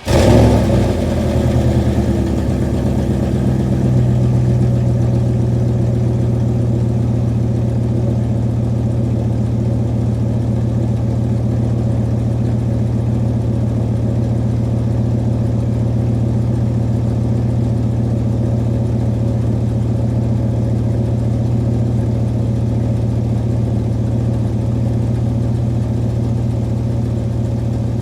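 1995 Dodge Ram's V8 firing on a cold start at about 35 °F, flaring up loudest in the first second or so, then settling into a steady idle.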